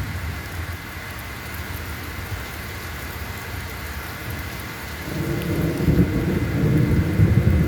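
Steady rain falling, with a low rumble of thunder building about five seconds in.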